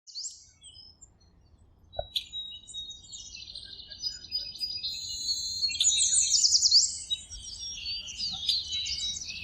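Birds chirping and singing: many short high chirps and quick whistled trills, sparse at first and fuller and louder from about five seconds in. A single short click about two seconds in.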